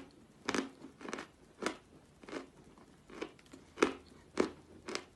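Close-up crunching of edible 'General Vatutin' chalk being chewed: sharp, crisp crunches at a steady pace of about two a second.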